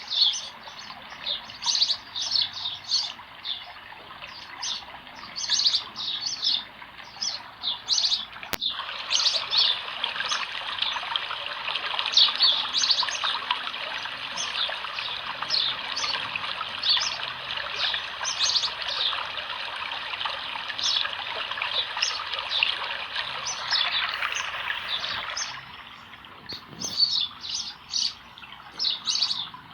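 Many small birds chirping and singing together. From about a third of the way in until near the end, a steady rush of flowing water joins them, starting and stopping abruptly.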